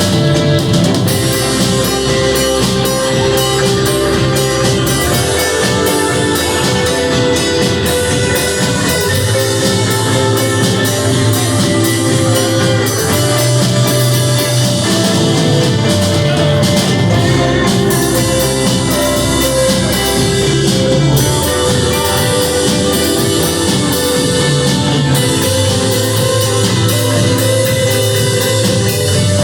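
A rock band playing: drum kit and guitar over steady held notes.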